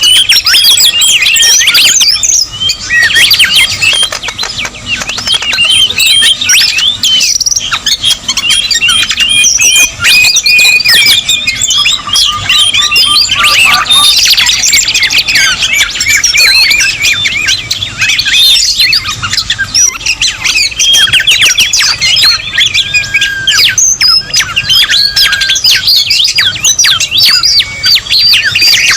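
A dense, busy chorus of many songbirds calling over one another: rapid chirps, squawks and short whistles, with a fast trill about twelve seconds in and a few level whistled notes later on. It is a bird-lure recording for trapping songbirds such as whistlers.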